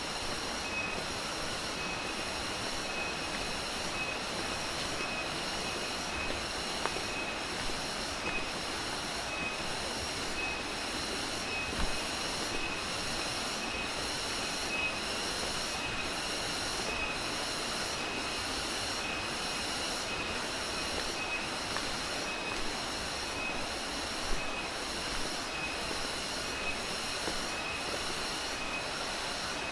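Tropical forest insects calling in a steady pulsing chorus, a shrill high chirr repeating about one and a half times a second, over a constant hissing rush of background noise.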